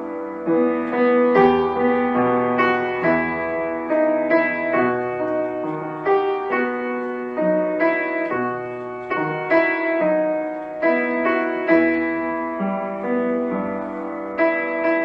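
Background music: a piano piece, with notes and chords struck in a steady flowing pattern.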